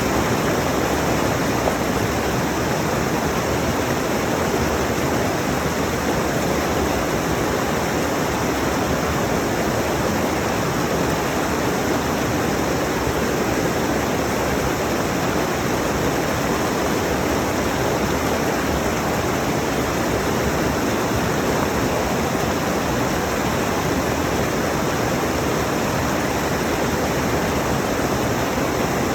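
Rushing mountain stream: water running over rocks in a steady, unbroken rush.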